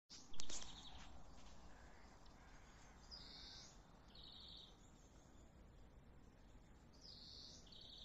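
A bird gives a short two-part call twice, about three seconds in and again near the end, over a low steady outdoor rumble. A sharp knock just after the start is the loudest sound.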